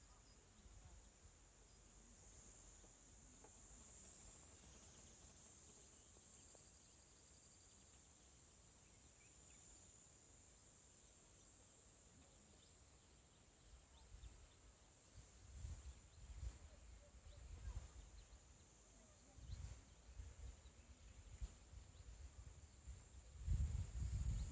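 Faint, steady high-pitched chirring of insects in mountain countryside, with intermittent low rumbles coming in from about halfway.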